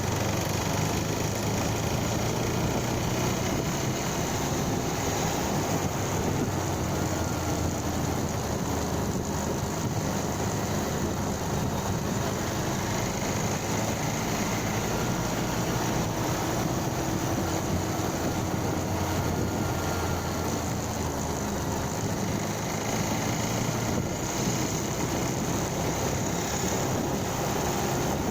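Motorcycle engine running steadily while riding, with a constant rush of road noise and no change in pace.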